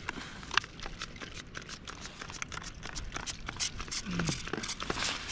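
Footsteps on a trail, a quick irregular run of scuffs and clicks, with a short vocal sound about four seconds in.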